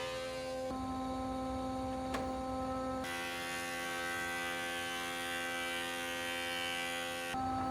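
Steady electric hum of a woodworking machine running in the workshop, a pitched drone that shifts slightly at a few abrupt cuts between takes. A faint click sounds about two seconds in.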